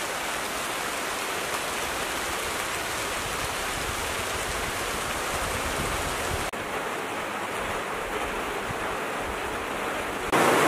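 Heavy rain pouring down, a steady even hiss, with a brief dip in level about six and a half seconds in.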